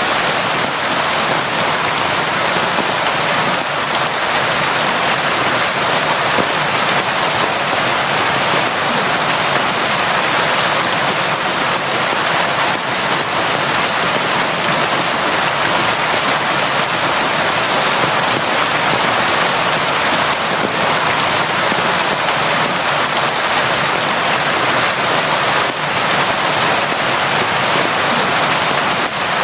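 Steady, constant rainfall: a dense even hiss of rain with scattered drops pattering on a surface.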